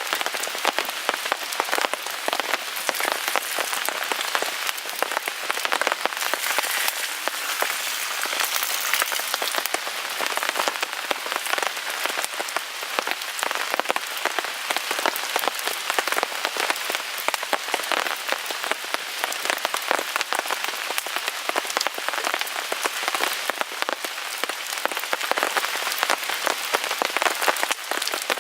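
Steady rain pattering on a tarp overhead, a dense, even patter of drops ticking on the fabric.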